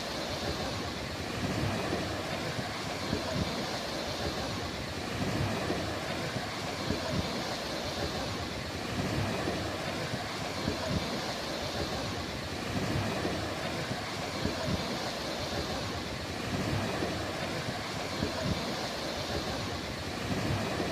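Sea waves washing on a beach: a continuous wash that swells and eases every few seconds, with low wind rumble on the microphone.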